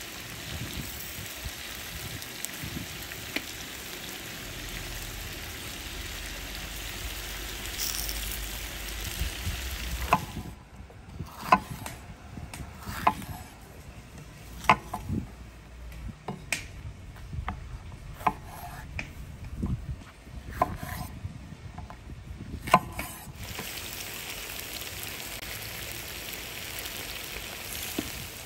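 Food frying and sizzling in a kazan cauldron. In the middle stretch the sizzle drops and a metal utensil clinks sharply against the pot about a dozen times, at irregular intervals, as the food is stirred.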